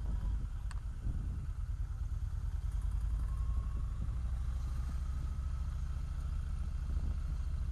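Motorcycle engine running steadily at low revs, a low pulsing rumble, with a faint thin whine joining in about halfway through.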